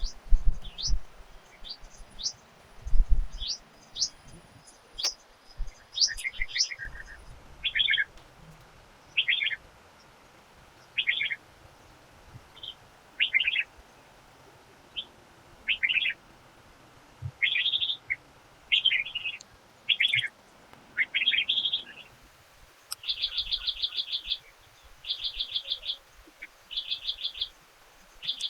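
Forest birds calling, with a series of short high chirps and repeated phrases; in the last few seconds a bird repeats a fast trill about once a second. A couple of low thumps sound near the start.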